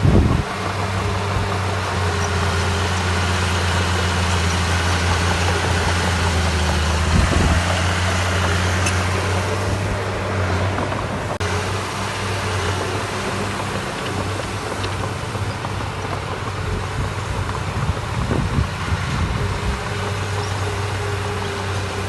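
Diesel engine of heavy construction machinery running steadily at a low, even hum. It drops back for a stretch midway and picks up again near the end, with a few low thumps: one at the start, one about seven seconds in and one near the end.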